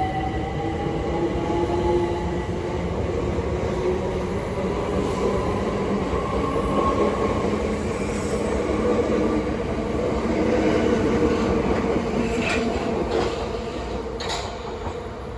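Electric multiple unit train running, its traction motors giving a whine that rises steadily in pitch as it gathers speed, over the rumble of wheels on the rails. The sound fades near the end.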